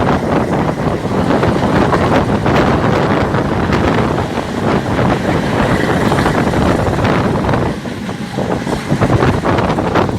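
A moving train, its running noise loud and continuous, with heavy wind buffeting the microphone.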